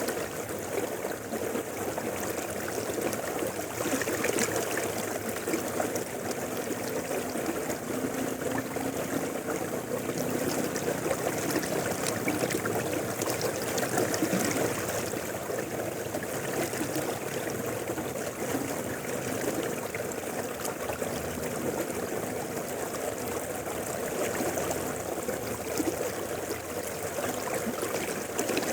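Mountain river flowing steadily over rocks, a continuous rush of water with small splashes and trickles.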